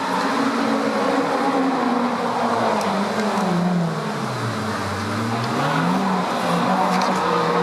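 Historic DTM touring car's racing engine: the revs fall steadily as it slows, bottom out about five seconds in, then climb again as it accelerates away, with a couple of sharp cracks.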